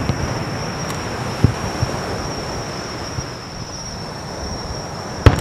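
Fireworks aerial shells going off with sharp bangs, one about a second and a half in and a louder one near the end, over steady wind noise on the microphone.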